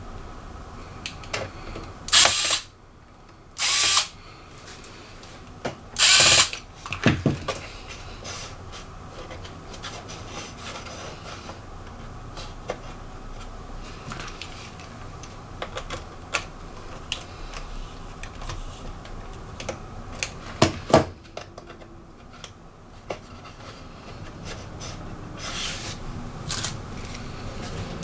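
Electric screwdriver run in several short bursts of about half a second each, driving the small screws of a laptop's case and parts, with light clicks and taps of tools and plastic between the bursts.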